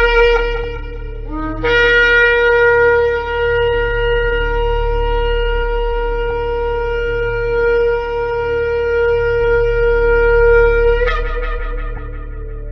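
Shofar blown: a blast breaks off about half a second in, then after a short lower note a single long held blast lasts about nine seconds and ends with a brief upward waver before fading. A steady low hum runs underneath.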